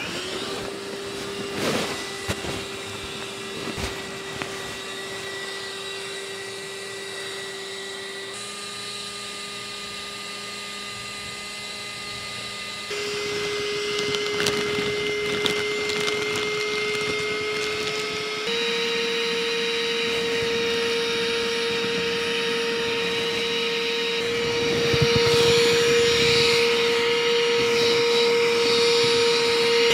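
A small electric motor running steadily with a droning hum. Its pitch steps up three times, at about a third, halfway and nearly two-thirds of the way through, getting louder each time.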